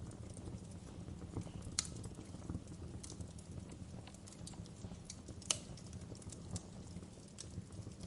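Wood fire burning: a steady low rumble of the flames with scattered sharp crackles and pops, the loudest about two seconds in and about five and a half seconds in.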